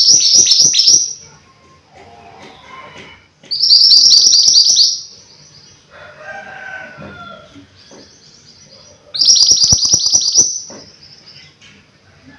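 A mantenan gunung songbird singing vigorously in three loud bursts a few seconds apart, each a quick run of about ten high, sharp notes. Fainter, lower calls sound in the gaps.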